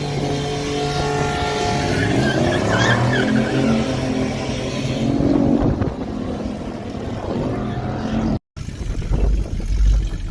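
Car engine revving hard, its pitch climbing and falling, with a brief high squeal about three seconds in. A low engine rumble follows after a short break near the end.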